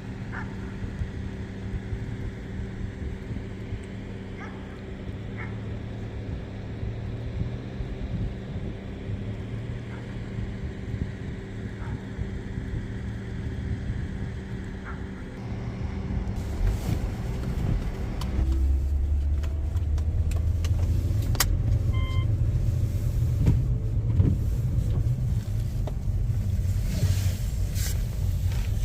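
Motor vehicle running, a steady low hum that turns into a heavier, louder rumble about two-thirds of the way through.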